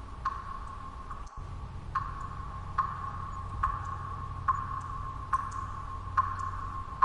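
Water drops falling at an even pace, a little faster than one a second, each a sharp plink that rings briefly, over a steady low background noise.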